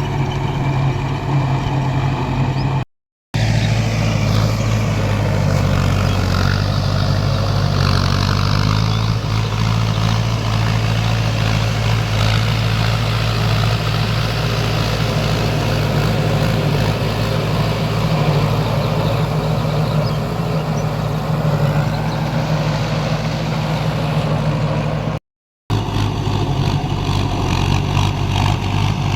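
Mahindra tractor's diesel engine running steadily at work, with its pitch shifting slightly a few times. The sound drops out to silence twice for a moment, once a few seconds in and once near the end.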